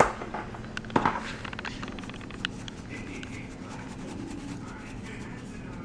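A spoon knocking and clicking against a mixing bowl while stirring: a sharp knock at the start, another about a second in, then a run of light clicks, over a steady low hum.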